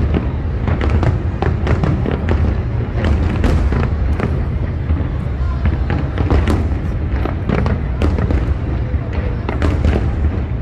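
Aerial fireworks bursting in quick succession: many sharp bangs and crackles over a constant low rumble.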